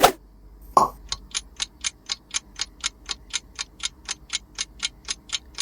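Countdown-timer clock sound effect ticking evenly, about four ticks a second, after a brief pop just under a second in.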